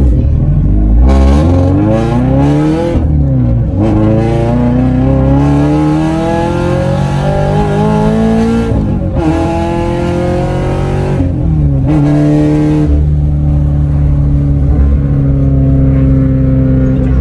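A car engine heard from inside the cabin, accelerating through the gears: its pitch climbs, drops at each upshift about three, nine and eleven seconds in, then holds steady at cruising speed.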